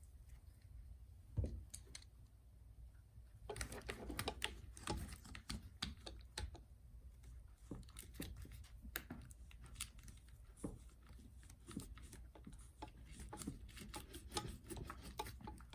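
Small irregular clicks, taps and light scrapes of hand tools and parts being worked on an opened MacBook Pro laptop. The clicks start about three and a half seconds in and continue at an uneven pace.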